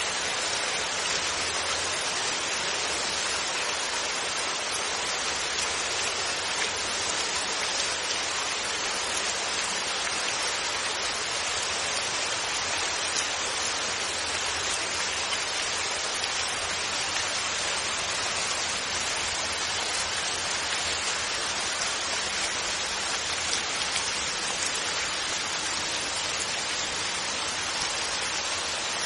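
Steady, even rain falling on a surface, with no thunder.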